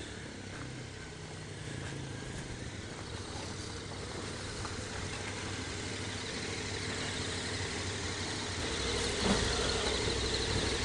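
Motorcycle engine idling steadily, slowly growing louder toward the end.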